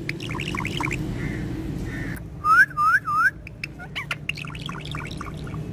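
Pet parrot calling: short gliding whistled chirps, then three loud squawking calls in quick succession about two and a half seconds in, followed by rapid short clicks and chirps.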